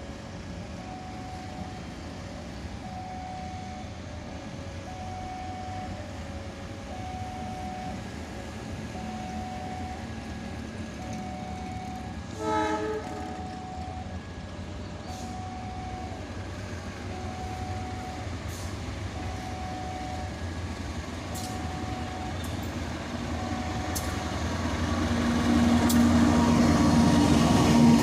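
A two-tone railway warning signal alternates steadily, about one tone a second, with a short horn blast about halfway through. Over the last few seconds a CC 201 diesel-electric locomotive comes in with its engine rumble rising to the loudest sound.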